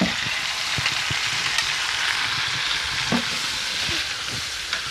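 Garlic sizzling in hot butter in a wok with a steady hiss, freshly added chopped vegetables in the pan, and a spatula stirring and scraping against the pan a few times.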